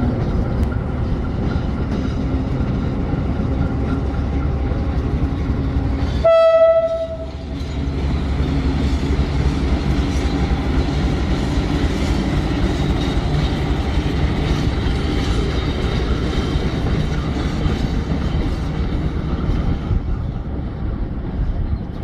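A train running with a steady low rumble. About six seconds in, a train horn sounds once, one loud blast lasting about a second.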